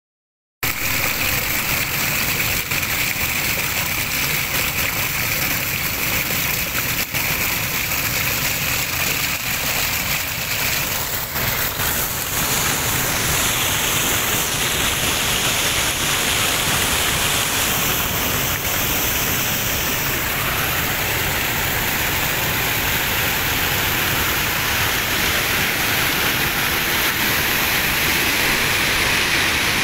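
Waterfall: a steady rush of falling water, its tone shifting slightly about twelve seconds in.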